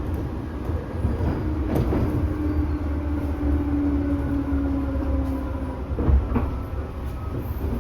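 Running sound inside a Tobu 10000 series commuter train car: a steady low rumble of wheels on rail, with a few sharp clacks over rail joints. A steady tone holds for a few seconds in the middle.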